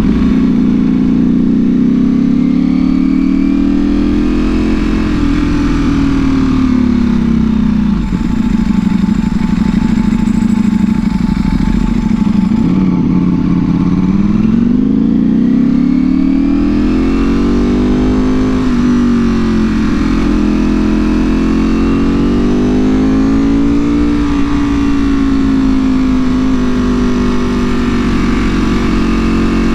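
Ducati Panigale V4R's V4 engine through an Akrapovic full exhaust, under way: the engine note rises and falls as the bike speeds up and eases off, dropping lowest about halfway through and then climbing again.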